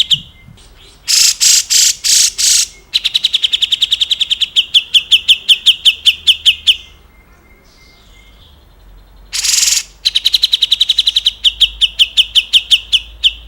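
Grey-cheeked bulbul (cucak jenggot) calling: four harsh, scratchy notes, then a long fast trill of repeated high notes at about ten a second. After a pause comes one more harsh note and a second fast trill.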